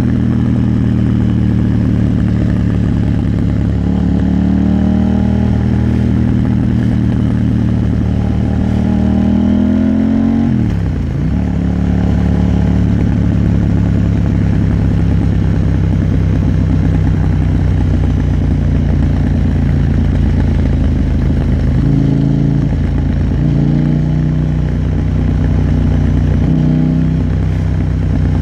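KTM 890 Duke R parallel-twin engine running under way at steady revs that creep up, then fall sharply about ten seconds in before settling. Later the revs shift briefly a few times.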